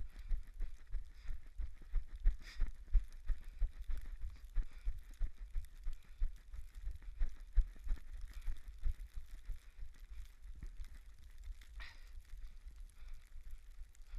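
Running footsteps thudding in a quick, steady rhythm, with wind buffeting the body-worn camera's microphone as a low rumble.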